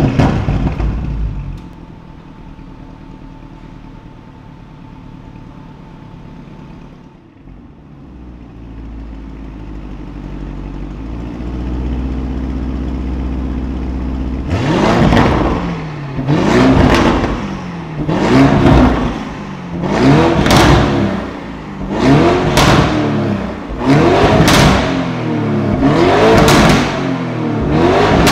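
An engine running steadily at first, then revved again and again from about halfway through, each rev rising and falling in pitch roughly every two seconds. A loud burst comes right at the start.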